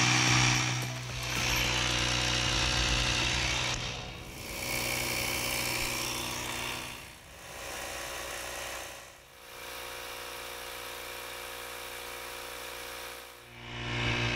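AEG 18V cordless inflator running steadily as it pumps up a large 4WD tyre, heard in several short stretches joined by brief fades. Its level steps up and down between the stretches.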